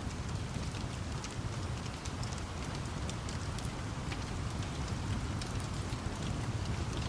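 Steady rain with a continuous low rumble underneath, dotted with scattered sharp crackles from a wood fire.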